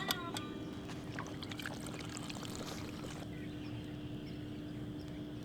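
Steady outdoor water sound with a faint low hum underneath and a few small ticks early on.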